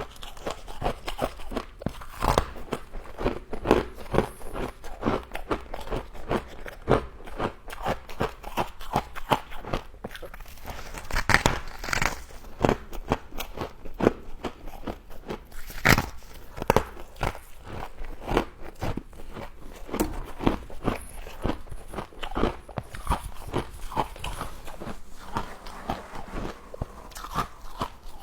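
Close-mic biting and chewing of crunchy frost scraped from a humidifier: dense, irregular crunches and crackles, several a second, with a few louder bites.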